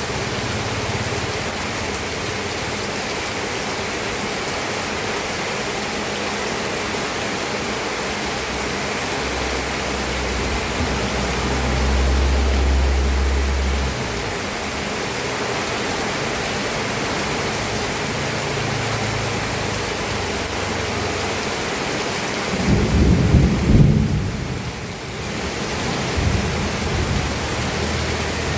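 Steady rain falling, with thunder rumbling low underneath: a long low rumble from about ten seconds in, and a louder rumble about twenty-three seconds in.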